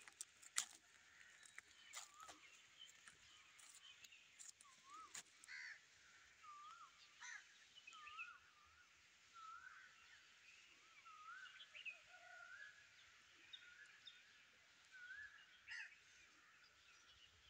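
Faint birdsong: short whistled chirps repeated every second or so. A few sharp clicks fall in the first five seconds, the loudest about half a second in.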